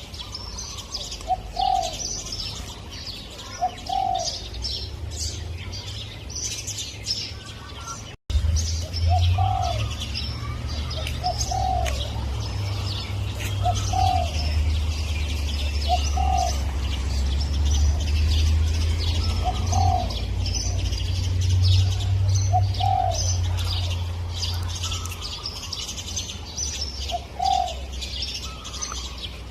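Spotted dove cooing: short low coos repeated every second or two, over steady high chirping of small birds. A brief dropout comes about eight seconds in, followed by a low rumble that lasts until a few seconds before the end.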